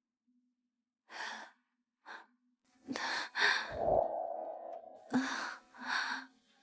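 A person's breathing with a series of short sighs and gasps, about five breaths roughly a second apart.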